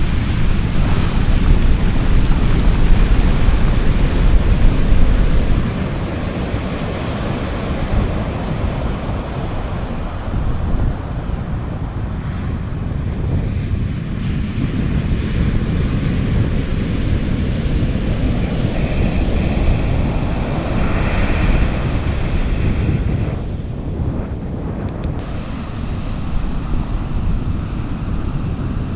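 Sea waves washing onto a beach, with wind buffeting the microphone, heaviest for the first five seconds or so.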